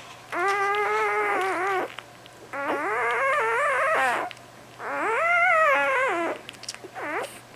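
Newborn puppy crying in long, wavering squeals: three cries of about a second and a half each, then a short one near the end.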